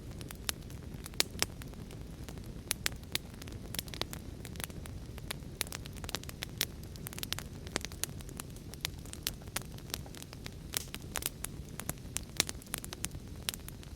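Wood fire crackling in a fireplace: a steady low rumble of the flames with frequent sharp, irregular pops and snaps of burning logs.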